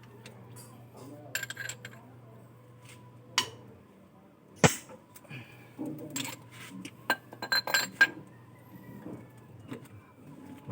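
Hard objects clinking and knocking together, with ringing strikes that sound like metal or glass, one sharp knock about halfway through and a quick run of clinks near the end, over a steady low hum.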